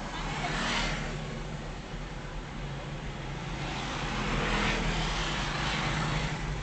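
Car driving on the road: a steady engine and road hum, with louder whooshes swelling and fading about a second in and again from about four to six seconds in.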